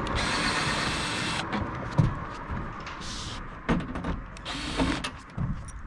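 Cordless power drill running for about a second and a half, backing screws out of the RV roof, followed by scattered knocks and clicks of work on the roof.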